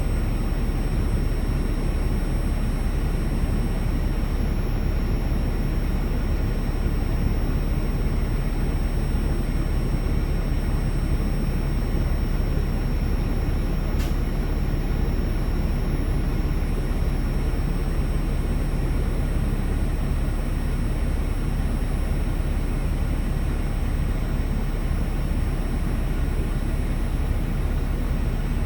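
Steady low rumble and wash of noise from a truck going through a truck wash, unchanging throughout, with a faint high whine over it and a single click about halfway through.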